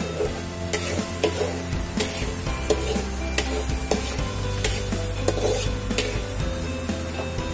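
Minced garlic sizzling in melted butter in a pan, with a metal spatula scraping and clicking against the pan as it is stirred. The garlic is being cooked gently until soft, not burnt.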